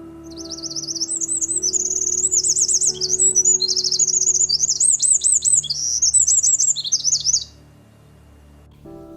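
A songbird singing a long, fast, varied warbling song of high rapid notes that stops near the end, over soft sustained background music.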